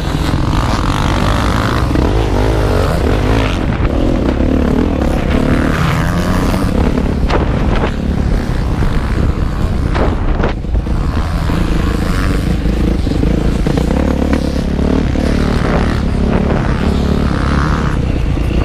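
Motocross motorcycle engine running hard, its revs rising and falling continuously, heard from on the bike, with a few sharp knocks.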